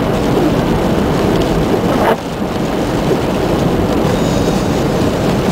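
Strong blizzard wind buffeting the microphone: a loud, steady rumbling roar of gusting wind, with a brief knock about two seconds in.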